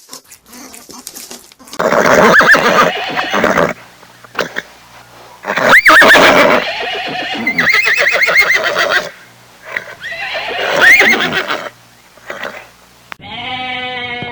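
A horse whinnying three times, each a long, loud, quavering call. Near the end a different, steadier animal call begins.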